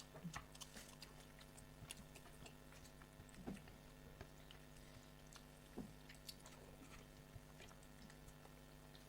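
Faint chewing and scattered small wet clicks of someone eating, over a low steady hum.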